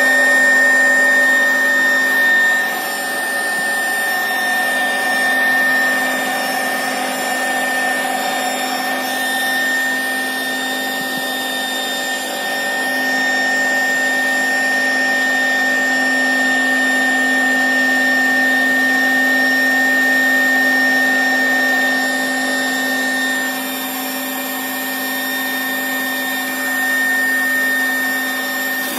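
Electric air pump running steadily while inflating an inflatable boat, a continuous motor hum with a high whine. The pitch holds level throughout, with only small swells in loudness.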